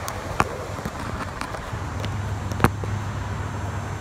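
1994 Nissan Sentra's GA16DE 1.6 L four-cylinder idling steadily through an exhaust with the muffler broken off, a low even note. Two sharp knocks cut across it, about half a second in and a louder one a little past two and a half seconds.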